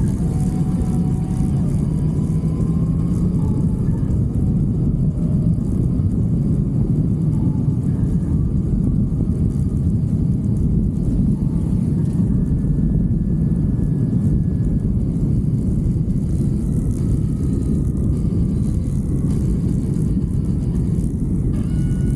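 Motorcycle running on the road at a steady pace, its engine note drifting slowly up and down under a heavy, steady rush of wind and road noise.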